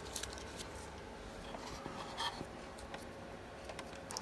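Faint handling sounds with a few light clicks and taps as a warranty label is put onto a refurbished instrument cluster.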